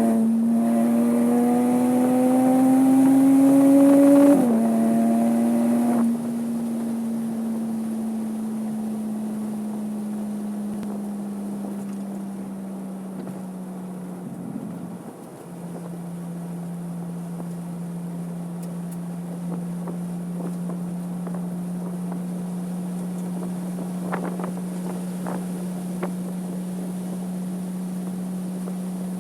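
Porsche 987.2 Cayman S 3.4-litre flat-six pulling hard for about four seconds, its note rising, then dropping suddenly as the driver lifts or shifts. It then runs at a steady, slowly falling engine speed, dips briefly about halfway through, and settles into a steady drone at part throttle.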